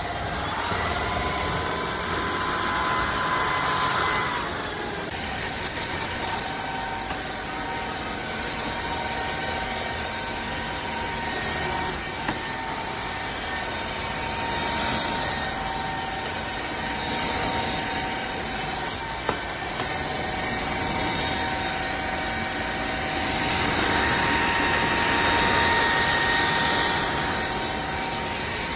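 Shark cordless stick vacuum running: a steady motor whine over rushing airflow. A pitch glides up just after the start, the sound shifts abruptly about five seconds in, and it grows louder for a few seconds near the end.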